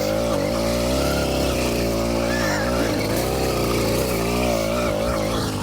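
Small 80cc two-stroke bicycle engine running under throttle, its pitch rising and falling as the rider works the throttle.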